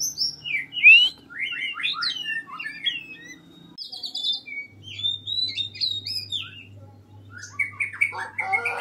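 Oriental magpie-robin singing a varied song of clear whistled phrases, with notes sliding up and down and quick runs of short notes.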